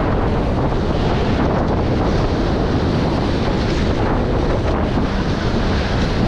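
Steady wind buffeting the microphone over water rushing past the hulls of a Nacra 20 beach catamaran sailing through waves.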